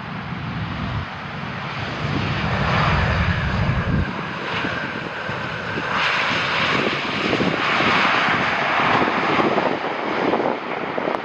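Jet airliner flying low on approach to land. Its engine noise grows louder over the first few seconds and stays loud.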